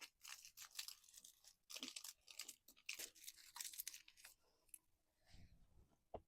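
Faint crisp crackling and crunching of a nori hand roll being bitten and chewed, dense for about four seconds, then quieter, with a single soft knock near the end.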